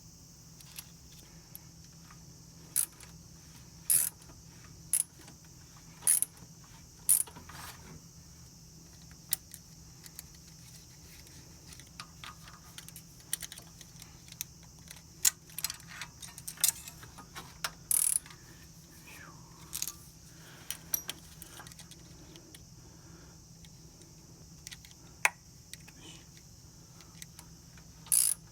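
Small metal parts and hand tools clinking and tapping against each other, a string of irregular sharp clicks with pauses between them, as in engine parts being handled during a cylinder-head rebuild.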